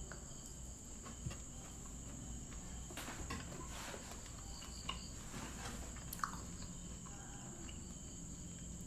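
A steady, high-pitched cricket trill in the background, with a few faint clicks scattered through it.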